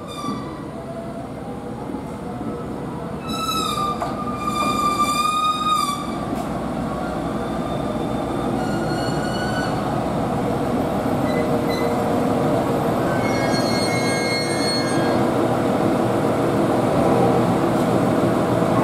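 GV-E400 series diesel-electric railcar pulling into a station and braking to a stop, its running noise growing louder as it nears. High, wavering squeals come from the running gear as it brakes, the strongest about three to six seconds in and shorter ones later.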